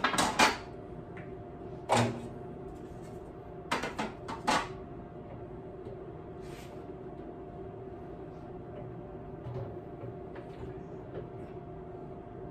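Knocks and clunks of a honey extractor's lid and wooden frames being handled: a cluster of knocks at the start, one about two seconds in, and several more about four seconds in, over a steady low hum.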